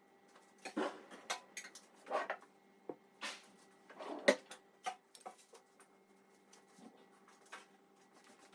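Dishes and food containers being handled and set down: scattered clinks and knocks, the loudest about four seconds in, over a faint steady hum.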